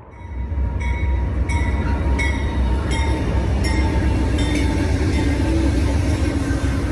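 Amtrak passenger train running with a loud, steady low rumble. Over the first few seconds a regular click comes about every 0.7 seconds.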